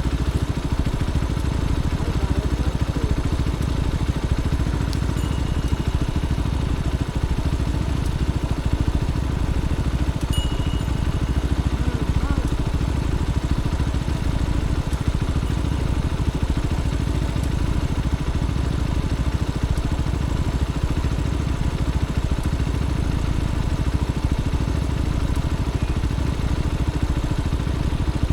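Motorcycle engine running steadily at an even pace, with no clear revving.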